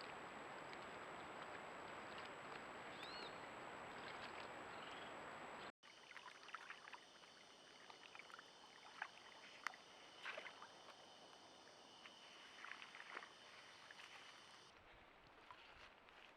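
Faint outdoor ambience from a camera trap: a steady hiss with a high, thin whine, then, after an abrupt cut about six seconds in, quieter sound with several steady high tones and scattered short clicks and chirps.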